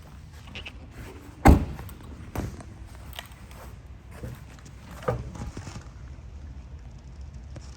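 A car door shutting with a solid thunk about one and a half seconds in, followed by a lighter knock a second later and another near five seconds, over a steady low rumble.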